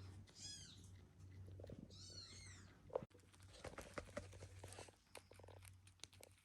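Newborn kittens nursing: two high-pitched kitten mews about a second and a half apart, then quick wet clicking and smacking as they suckle hard at the mother cat's teats.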